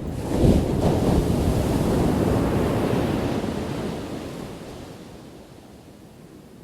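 Ocean wave crashing about half a second in, its wash staying loud for a few seconds and then fading away.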